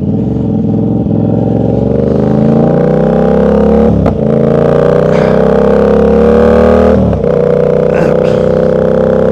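Yamaha R7 motorcycle engine accelerating hard, its note climbing through a gear, a brief break for an upshift about four seconds in, climbing again, then a second upshift about seven seconds in before it settles to a steady cruise.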